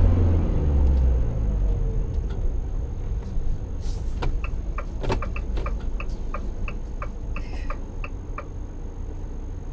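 Motorhome engine and road rumble inside the cab, with a turn indicator ticking in a regular run, about two to three ticks a second, from about four seconds in until near the end. A couple of light knocks come just as the ticking starts.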